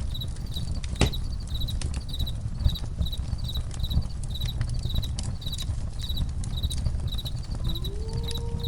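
Campfire crackling with occasional sharp pops, the loudest about a second in, under crickets chirping steadily at about two chirps a second. Near the end a long, low wolf howl begins, sliding up in pitch and then holding.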